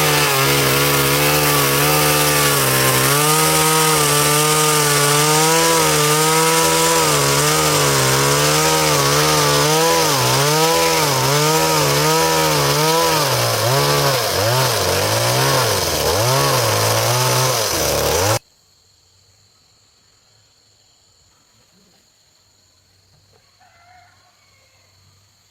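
Two-stroke chainsaw running at high revs while cutting log timber, its engine pitch dipping and wavering under load in the later part. The sound cuts off abruptly about three-quarters of the way through, leaving only faint background.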